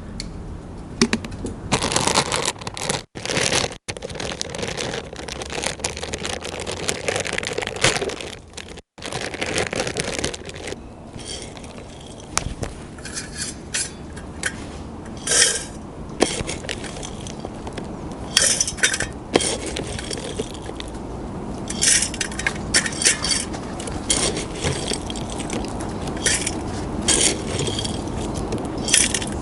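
Wood pellets clattering and rattling into a stainless steel wood stove, with metallic clinks, in repeated short bursts.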